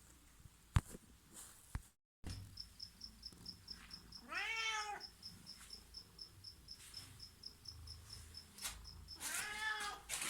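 A cat meows twice, two long drawn-out meows about five seconds apart, over a steady high-pitched chirping that repeats about five times a second.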